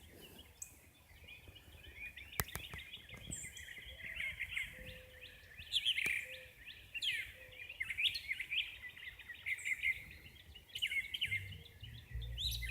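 Songbirds chirping and singing together, a dense run of quick high notes. There are a few sharp clicks about two and a half seconds in, and a low rumble near the end.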